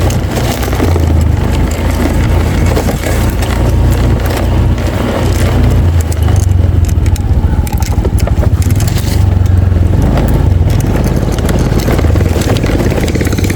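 A motor vehicle driving over rough, off-road ground: a steady low engine drone with clattering and scraping over it.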